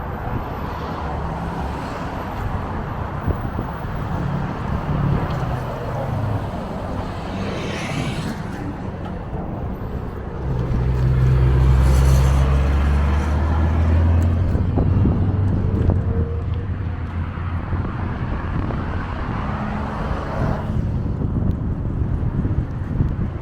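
Road traffic and wind noise heard from a moving bicycle, with a motor vehicle passing close about ten seconds in; its low rumble is the loudest part and fades over a few seconds.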